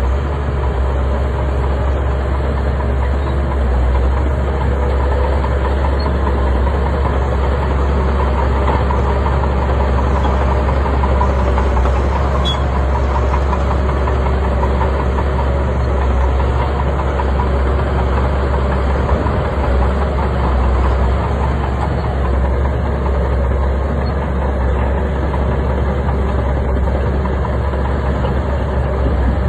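Crawler bulldozer's diesel engine running steadily under work, with a continuous heavy mechanical drone.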